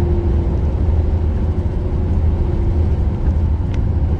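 Steady low rumble of road and engine noise inside a moving car's cabin. A steady hum rides over it and fades out a little under three seconds in, and there is a faint click near the end.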